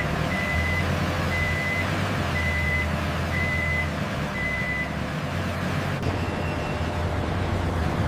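A truck's reversing alarm beeps five times at about one beep a second, then stops, over the steady sound of its engine running.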